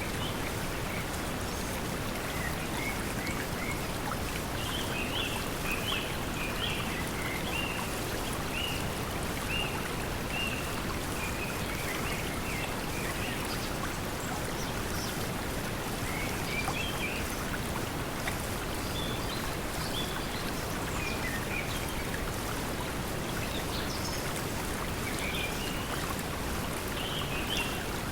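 Steady pink noise mixed with flowing water, with small birds chirping now and then over it.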